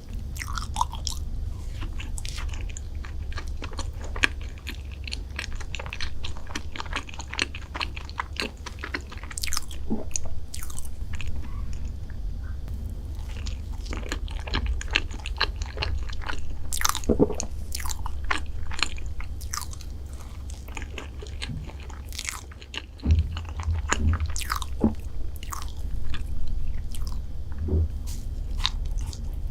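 Close-miked biting and chewing of chocolate desserts, with irregular crisp crunches and mouth clicks over a steady low hum.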